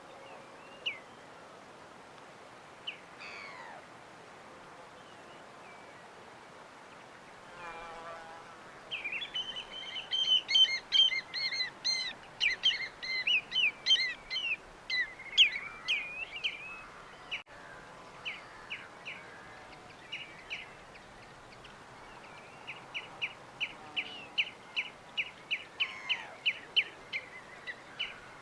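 Small birds chirping: a few scattered calls at first, a busy stretch of overlapping song about a third of the way in, then a quick run of repeated short chirps near the end. A brief insect buzz passes shortly before the song picks up.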